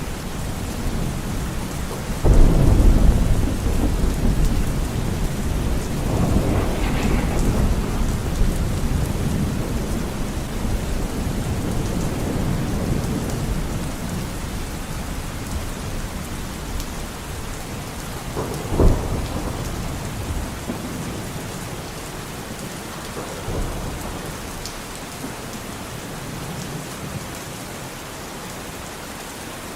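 Steady rain falling in a forest, with thunder. A loud rumble starts suddenly about two seconds in and rolls away, a second rumble follows soon after, a sharp crack comes near the middle, and a fainter rumble comes later.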